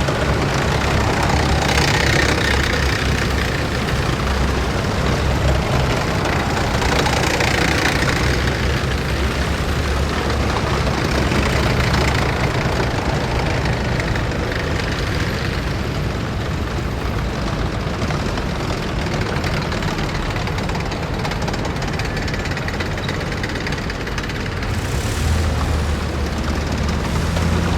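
A column of heavy military vehicles drives past, their engines running loudly with a deep, steady hum. The sound swells several times as individual vehicles go by.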